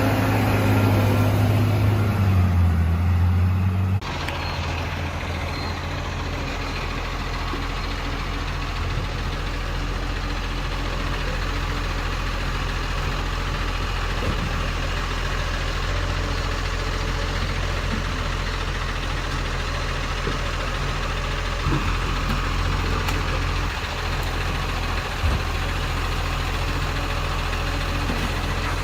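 Garbage truck engine idling steadily. About four seconds in, a louder engine sound with a wavering pitch cuts off abruptly, leaving the steady idle.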